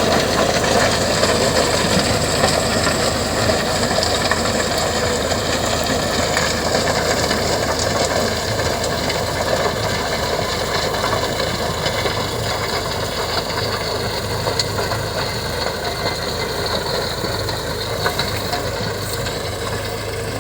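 Indo Farm 3048 tractor's diesel engine running steadily under load while it drives a rotavator through the soil, a continuous rough mechanical rumble that slowly grows quieter.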